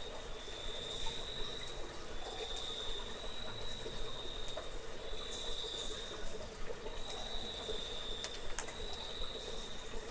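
Insect trilling in high-pitched bursts about a second long, repeating roughly every second and a half, over a steady lower hum and a few sharp clicks.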